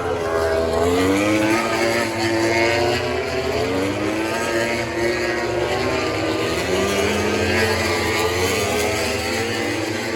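Racing motorcycle engines accelerating hard on track. The pitch climbs and drops back again and again as the bikes shift up through the gears.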